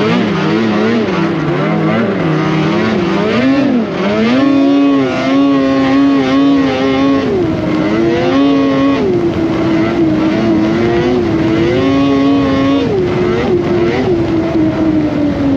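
2025 Polaris Indy Cross Country 600 snowmobile's two-stroke engine under way, its pitch swooping up and down as the throttle is worked, with several spells held at a steady rev, and dropping lower near the end.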